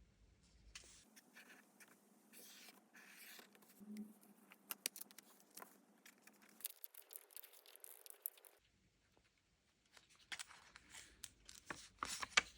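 Paper crafting at a desk, faint: rustling and handling of paper and stickers with many light taps and clicks. A short pause of near silence about two-thirds through, then the handling resumes.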